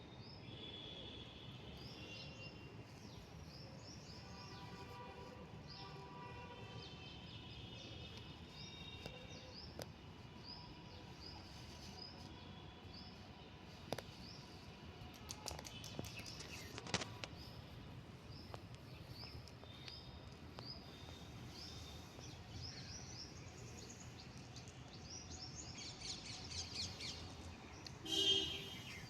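Small birds chirping over and over, with a steady low background hum. A louder bird call comes near the end.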